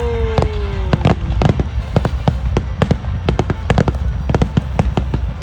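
Fireworks display: a rapid, irregular string of bangs and crackles from bursting shells over a steady low rumble. A tone slides down in pitch during the first second or so.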